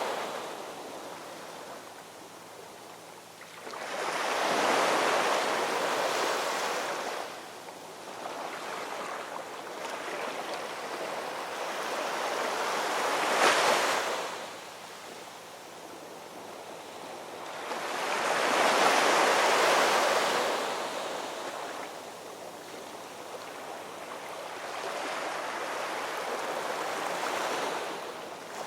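Ocean waves rolling in and breaking on the shore: four surges several seconds apart, each rising and then washing away, the one near the middle breaking more sharply.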